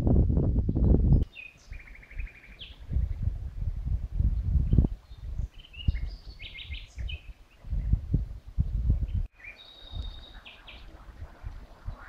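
Songbirds calling in turn: a short buzzy trill, quick chirps and a held high whistled note, over low rumbling gusts of wind on the microphone, loudest in the first second, where the rumble stops abruptly.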